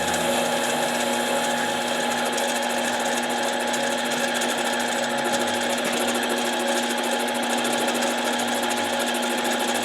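Harbor Freight mini lathe running steadily, its motor holding a constant whine.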